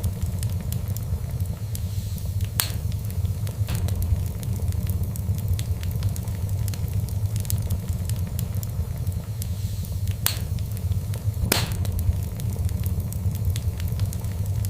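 Wood fire burning in a fireplace: a steady low rumble of flames with constant small crackles and a few louder pops, the loudest about eleven and a half seconds in.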